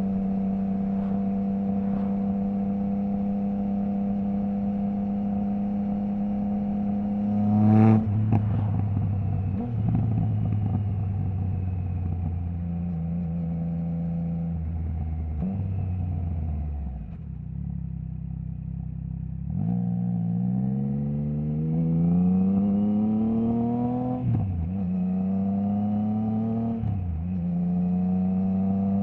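Triumph Trident 660's inline three-cylinder engine through a Zard stainless full exhaust with the baffle removed. It holds a steady cruise, then gives a sharp, loud blip about eight seconds in as it shifts down, and winds down to near idle around the middle. It then accelerates with rising pitch, with two quick upshifts near the end where the pitch drops and climbs again.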